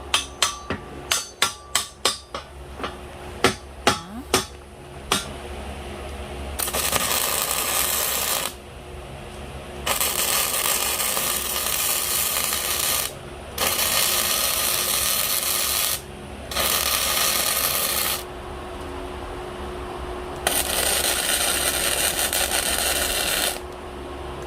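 About a dozen ringing hammer blows on steel in the first few seconds, then electric arc welding in runs of two to three seconds with short pauses, as braces are welded onto the steel frame of a hydraulic log splitter.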